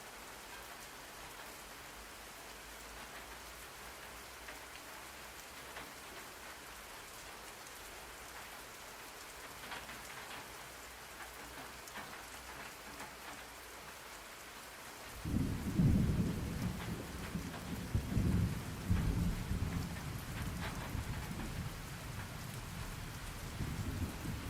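Steady rain falling, an even hiss. About fifteen seconds in, a low rumble of thunder starts suddenly and rolls on in surges over the rain.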